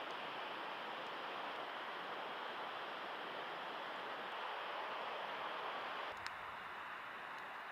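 Faint steady hiss of background noise. Its character changes about six seconds in, with one light click just after.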